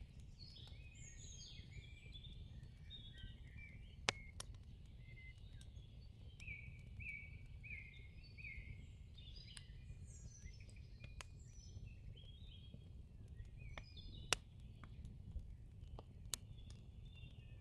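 Faint birdsong: several birds repeating short chirping phrases over a low steady rumble, with a few sharp clicks.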